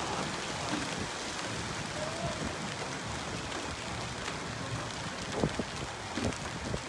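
Hailstorm: a steady hiss of heavy rain and wind, with hailstones striking hard surfaces and a few sharper knocks near the end.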